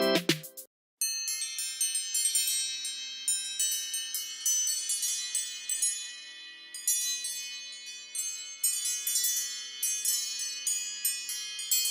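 iPhone ringtone of bright, high chime-like notes struck in quick succession and ringing over one another. It starts about a second in, just after a short gap in which a previous tone cuts off.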